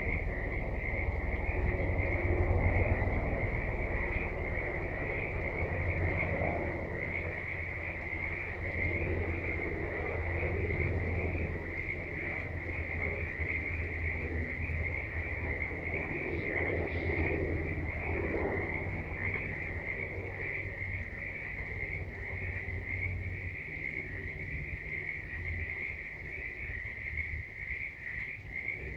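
A chorus of frogs calling, with a steady high trill that runs on without a break and scattered lower calls over it. A low rumble underneath fades out about three-quarters of the way through.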